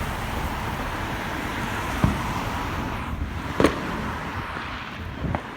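Steady road traffic noise from passing cars, with two sharp firework bangs, one about two seconds in and a louder one about a second and a half later.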